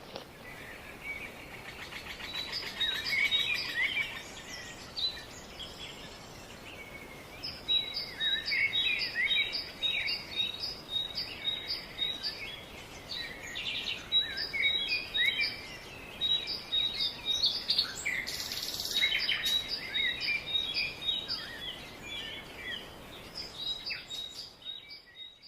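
Small birds chirping and calling: a run of short, high chirps, at times about two a second, over faint background noise.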